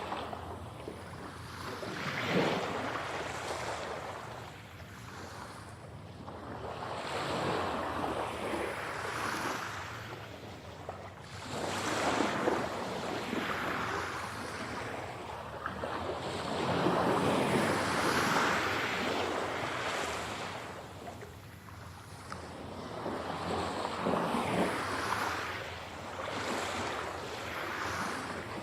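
Ocean waves breaking and washing on a shore, rising and falling in slow surges every few seconds.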